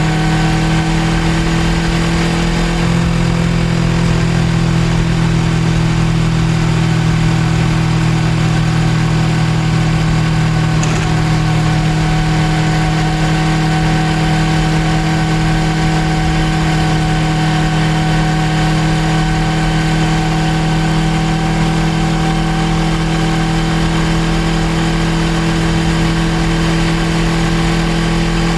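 Suzuki GSX250R's 248 cc parallel-twin engine running at steady revs while riding, over a steady rushing noise.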